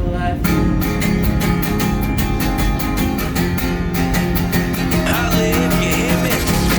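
Guitar strummed in a quick, steady rhythm over held low notes, playing a grunge rock song.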